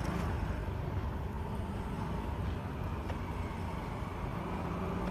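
Street ambience with a motor vehicle running nearby, a steady low rumble.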